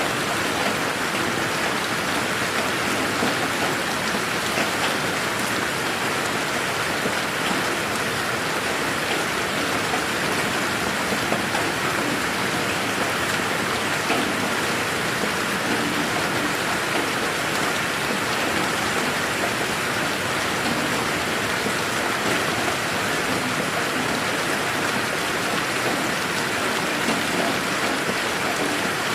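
Steady rain falling on a garden, an even patter of drops with fine individual ticks and no thunder.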